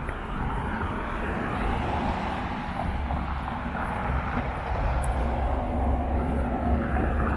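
A steady low engine rumble that grows louder from a few seconds in, over outdoor street ambience.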